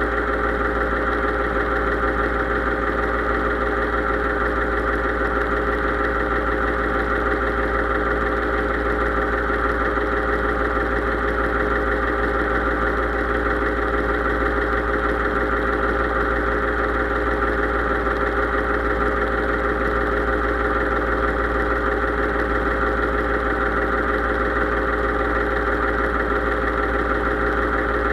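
Case IH 3220 tractor's diesel engine running at a steady speed, with an even, unchanging drone.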